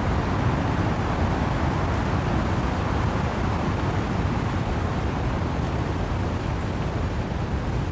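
Wind and rain through trees: a steady, dense rushing noise, heaviest in the low end, with no separate drops or gusts standing out.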